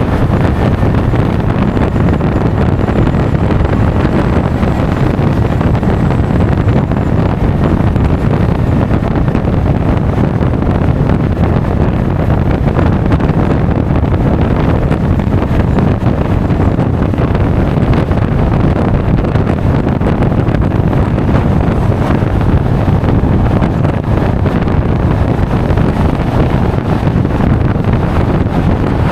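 Loud, steady wind noise buffeting an action camera's microphone on a moving Honda Forza 350 scooter, the low rush of wind and road drowning out any clear engine note.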